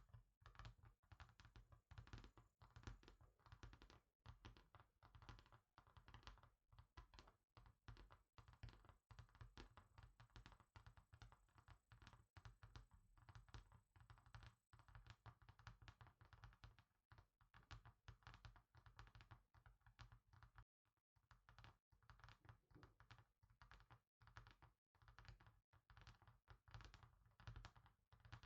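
Faint, fast fingertip tapping, many light taps a second in a continuous flurry, with a brief pause a little past the middle.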